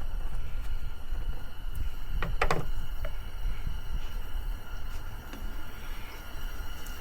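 Low, gusty rumble of wind on the microphone, with a short rattling clatter a little over two seconds in as something is handled, while oil is being added to the engine.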